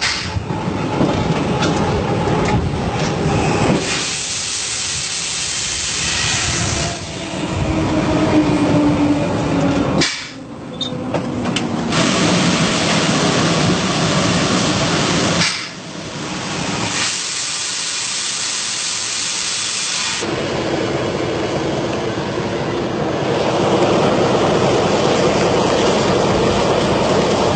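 Passenger train running on the rails, a loud steady rushing and hissing noise that changes abruptly several times.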